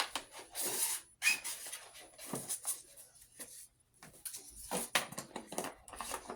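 Cardboard box and packaging being handled and pried at: irregular rubbing, scraping and rustling with small clicks and knocks, coming in short bursts.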